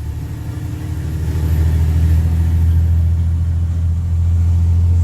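Straight-piped Cummins C8.3 diesel in a school bus running with a deep, low exhaust note. It starts softer, builds over about a second as the engine pulls harder, dips briefly about four seconds in, then holds loud.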